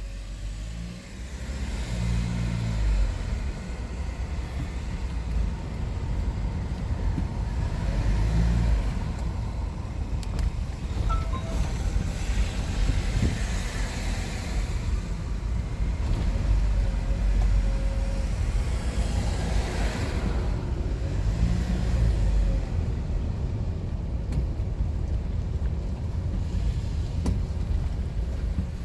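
Car driving on the road: a steady low engine and road rumble, with the engine note rising and falling a few times as it speeds up and eases off.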